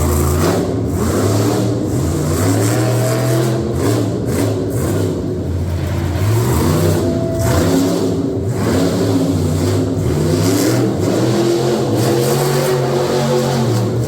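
Several engines revving and running at once, their pitch rising and falling.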